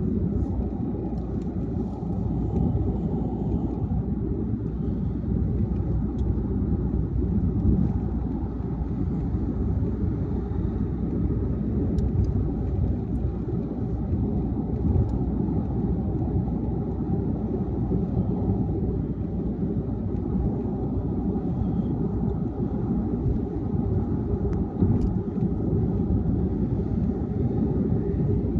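Steady low rumble of a car cruising on a highway: tyre and engine noise that holds an even pace throughout.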